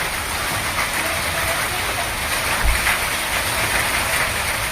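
Heavy rain pouring down as a steady, dense hiss, with one brief low thump about two and a half seconds in.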